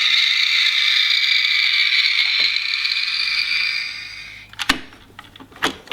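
Dickie Toys garbage truck toy's electronic sound effect playing from its small built-in speaker, a steady noisy sound that fades out about four seconds in. A couple of sharp clicks from the plastic toy being handled follow near the end.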